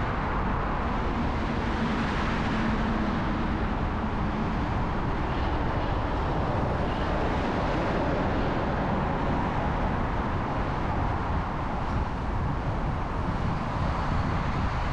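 City street traffic heard from a moving bicycle: a steady rush of road and wind noise, with a low engine hum from a nearby vehicle between about one and four seconds in.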